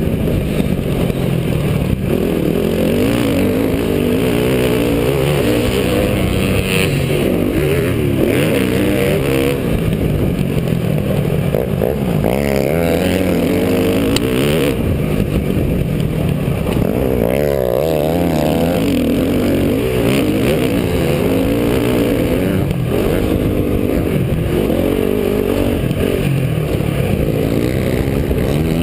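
Motocross dirt bike engine being ridden hard, its pitch rising and falling over and over as the throttle opens and closes and the gears change.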